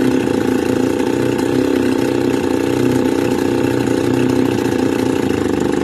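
Stihl FS 280 brush cutter's two-stroke engine idling steadily with its idle speed raised. The engine has a fault that makes it shut down as it warms up.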